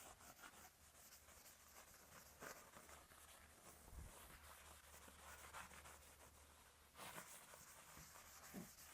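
Faint, soft scratchy strokes of paint being applied to wooden sign boards, repeating irregularly about once a second.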